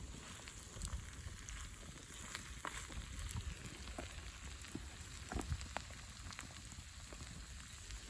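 Wood campfire crackling: scattered sharp pops over a steady hiss.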